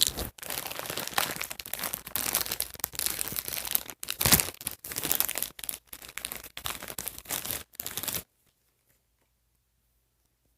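A crinkly blind bag being torn open and handled, a dense run of crinkling and tearing with the loudest tear about four seconds in. It stops abruptly about eight seconds in.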